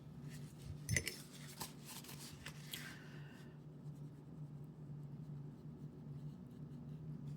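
Watercolour brush dabbing and stroking on paper, light scratchy and tapping sounds with a sharper knock about a second in, fading out after about three seconds. A steady low hum runs underneath.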